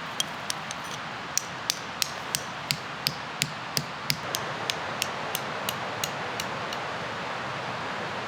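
A regular series of sharp knocks, about three a second, growing weaker and stopping about two-thirds of the way through, over the steady rush of a mountain river.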